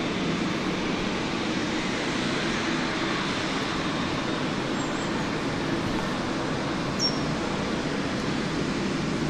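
Steady rumbling noise of a train at a railway station, with one short high chirp about seven seconds in.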